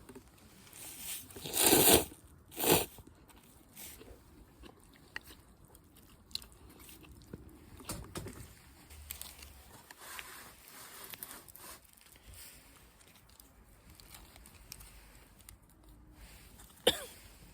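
Crunching and rustling handling noises: two loud crunches about two seconds in, scattered small clicks, and one sharp crack near the end.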